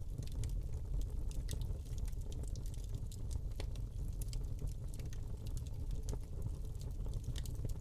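Wood fire burning in a fireplace: a steady low rumble of flames with irregular small crackles and pops from the burning log.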